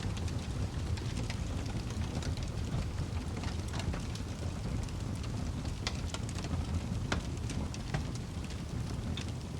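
Wood fire crackling in a fireplace: a steady low rumble with scattered sharp pops, a few louder ones about six and seven seconds in.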